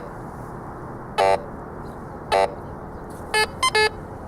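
Metal detector sounding short pitched beeps as it passes over ground full of buried metal targets, over a steady hiss. Single beeps come about a second apart, then a quick run of beeps starts near the end.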